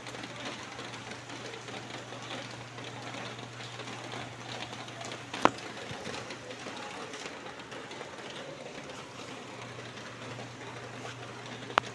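Steady rain falling, a dense even patter of drops, over a low steady hum. Two sharp clicks stand out, one about halfway through and one near the end.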